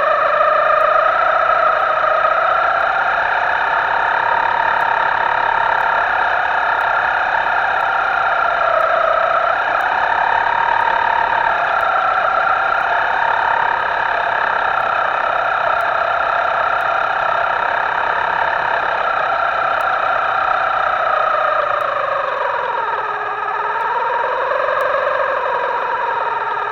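Radio-controlled boat's small electric motor running with a distorted, steady whine whose pitch wanders slowly and dips briefly about 23 seconds in.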